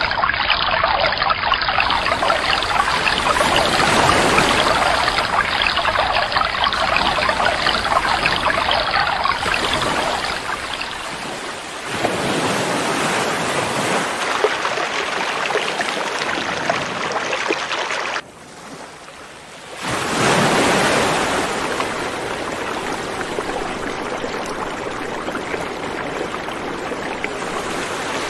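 River water rushing and splashing as a steady, dense noise; the sound changes abruptly about two-thirds of the way through, dropping sharply for a couple of seconds before returning louder, as if spliced between recordings.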